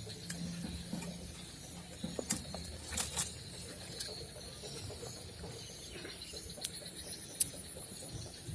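Steady high-pitched insect chirring, with scattered sharp clicks and ticks over it.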